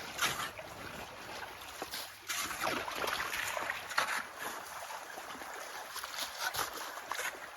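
Flood meltwater running in a ditch, with repeated splashing and scraping as a shovel digs through slush and ice to widen the channel.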